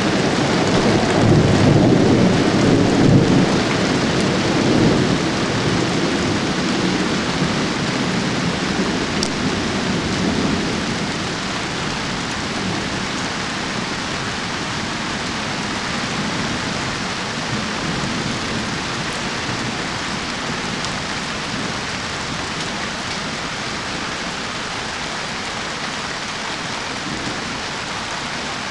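Thunder rumbling loudly through the first several seconds and dying away over about ten seconds, under a steady downpour of rain that carries on alone.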